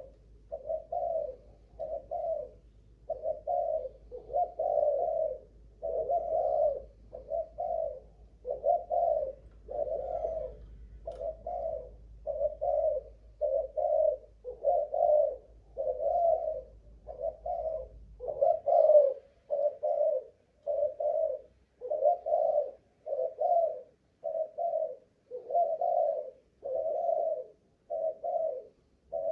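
Spotted dove (Malaysian cooing strain) cooing in a long, unbroken series of short coos, roughly one a second.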